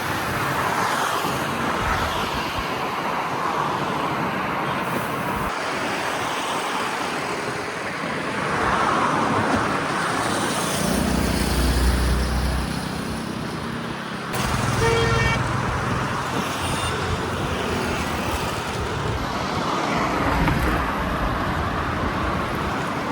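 City road traffic: cars and heavier vehicles passing, with deep rumbles from a big vehicle going by around eleven and fourteen seconds in and a brief horn toot about fifteen seconds in.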